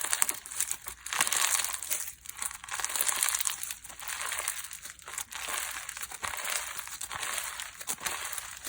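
Hands squeezing and pressing slime, giving a crackly, squishy noise that swells and fades about once a second, with small sharp pops.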